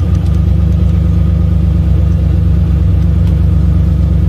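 Toy drag race car's built-in engine sound effect: a recorded car engine running at a steady, loud rumble.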